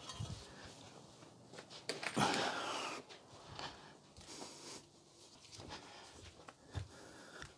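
Handling noise from a flat-screen TV being taken apart: scattered clicks and knocks of plastic and metal parts, with a louder rasping, scraping sound lasting about a second a little over two seconds in.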